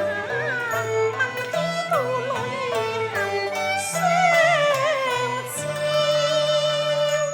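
Cantonese opera music: a wavering melody line with heavy vibrato rides over held low notes from the accompanying ensemble.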